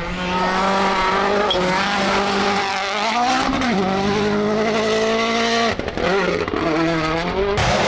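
Rally car engine running hard at high revs. Its note dips about three and a half seconds in, then breaks off briefly near six seconds before picking up again.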